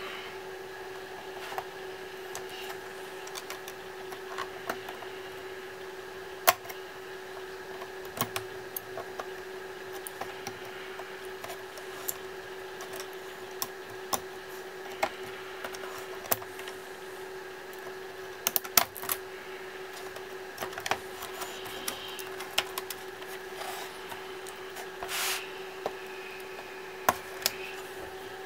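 Irregular clicks and taps of small plastic and metal laptop parts and hand tools being handled during disassembly, over a steady background hum.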